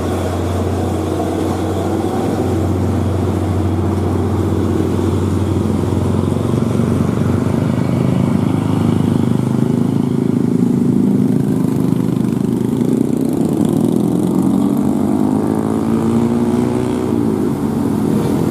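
Vehicle engines running steadily at a loud level, with their pitch rising and falling in the last few seconds as revs change.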